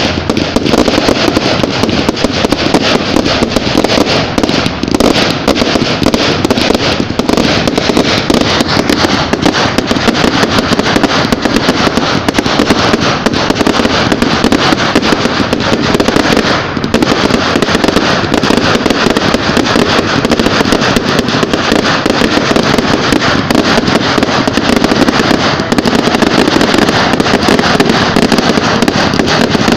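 Fireworks going off without a break: a dense, loud run of bangs and crackles, easing briefly about halfway through.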